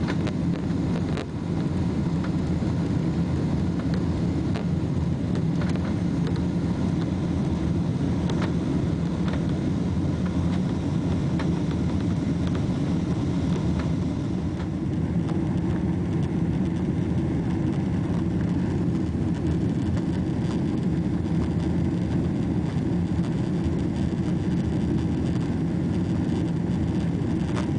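Steady drone of a Boeing 777-300's engines and airflow heard inside the economy cabin during the climb after takeoff, a deep rumble with hiss over it that eases slightly about halfway through.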